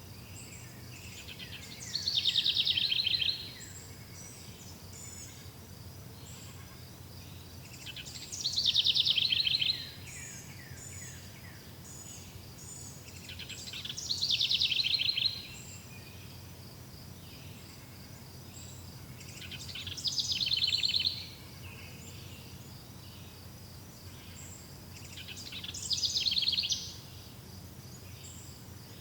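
A songbird sings the same short phrase five times, about every six seconds. Each phrase is a quick downward sweep into a rapid buzzy trill lasting about a second and a half. Faint, steady, high chirping runs underneath.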